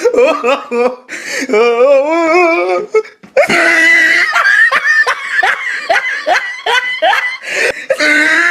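People laughing hard: a wavering, drawn-out laugh, then a long run of rapid rhythmic laughter bursts from about three seconds in.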